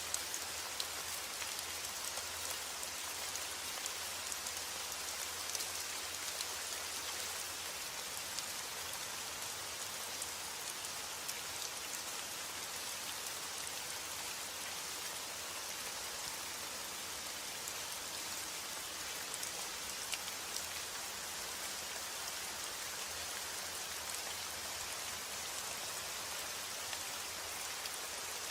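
Steady rainfall: an even hiss of rain with many small drops ticking on a surface.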